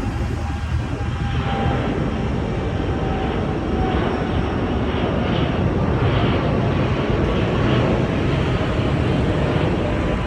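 Jet airliner's engines, a steady, loud rushing noise with a faint drifting whine, building about a second and a half in as the aircraft passes.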